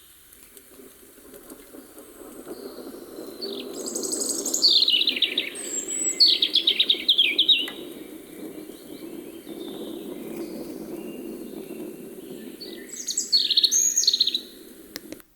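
European robin singing: high, quick warbling phrases of fast-falling notes, one run from about three to eight seconds in and another near the end, over a steady low background rumble.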